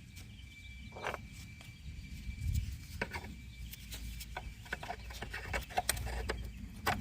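Scattered small clicks and knocks of hands handling parts in a car's engine bay while fitting a camshaft position sensor, coming faster in the second half, over a low steady rumble.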